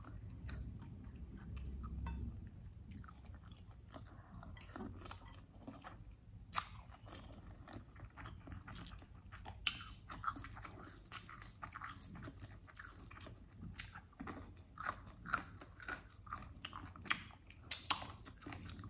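Close-miked chewing of chicken wings and rice, with sharp crunchy clicks that come more often in the second half.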